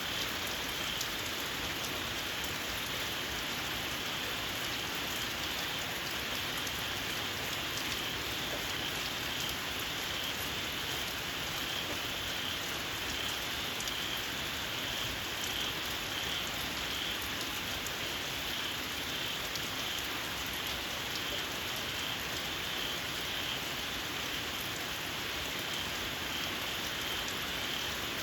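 Steady rain falling on a field, with a chorus of small frogs giving a shrill, evenly pulsing call throughout.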